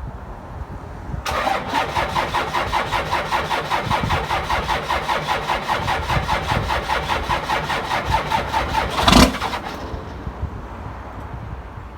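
1997 Dodge Ram 2500's 12-valve Cummins inline-six diesel with a 4-inch straight-pipe exhaust being cranked on the starter in the cold without a block heater, with an even chug of about five pulses a second for roughly eight seconds. Near the end it gives one short louder burst and stops without settling into a run.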